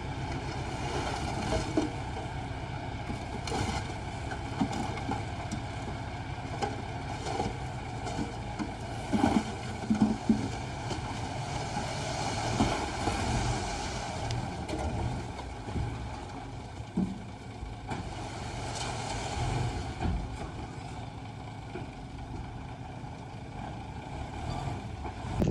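Komatsu D20A bulldozer's diesel engine running steadily under work, with a few sharp metallic knocks, loudest about nine to ten seconds in.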